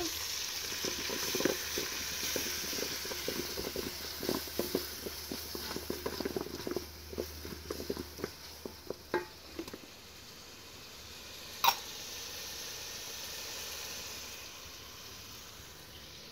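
Chopped tomatoes and onions frying in an aluminium pot, sizzling steadily while a wooden spoon stirs them, with many short knocks and scrapes of the spoon on the pot for the first ten seconds or so. One sharp click comes about two thirds of the way in.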